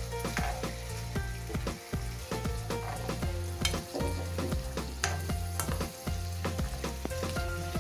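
Sliced shallots, garlic and green chillies sizzling in hot oil in a wok, stirred with a spatula that clicks and scrapes against the pan again and again.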